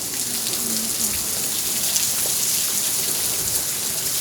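Heavy rain falling steadily, an even hiss with many small drop hits.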